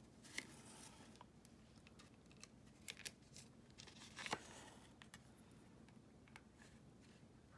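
Faint rustling and a few small ticks of paper and thread being handled as a button is sewn by hand onto a paper journal page.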